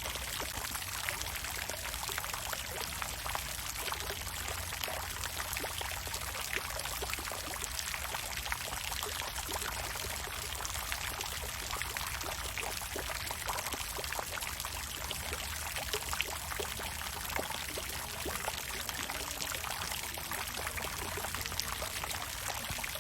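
Water fountain splashing steadily: a continuous rush of falling water crackling with many small splashes, over a low rumble.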